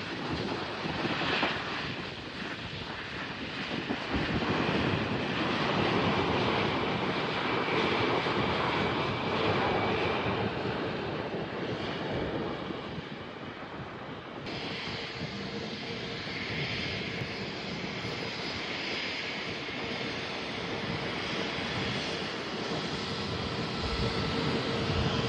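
Passenger aircraft engines running as a plane passes at the airport: a dense steady roar with a faint whine, swelling and easing, with an abrupt change in tone about halfway through.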